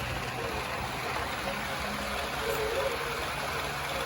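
Model train running along the layout's track, a steady rumble with a low hum.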